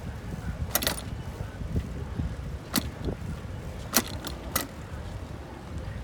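Bicycle ride: a steady low rumble of wind and tyres, with sharp rattling clicks from the bike, about a second in, near three seconds, and three in quick succession around four seconds.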